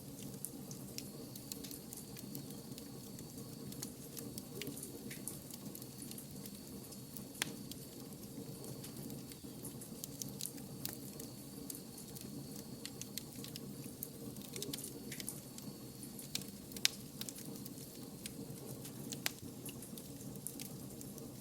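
Wood fire crackling steadily, with irregular sharp pops and snaps over a soft hiss; two louder pops stand out, one about a third of the way in and one near the end.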